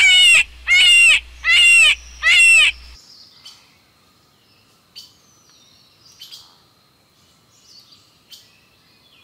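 Hare calling: a run of loud, high, pitched cries about two-thirds of a second apart, four in the first two and a half seconds. After them come only a few faint clicks and a thin whistle.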